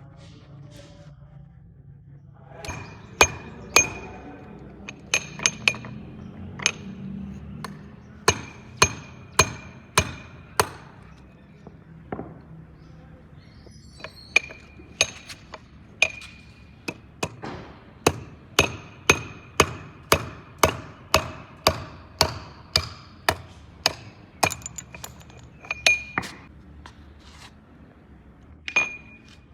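Hammer blows on a metal part, roughly one a second, each with a brief metallic ring, starting a few seconds in with a short pause about halfway through.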